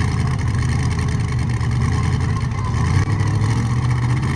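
Pulling tractor's engine running loud and steady.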